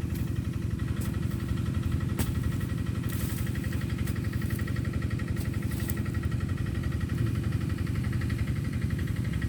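A small engine running steadily at idle with a fast, even putter. A few light clicks sound about two, three and six seconds in.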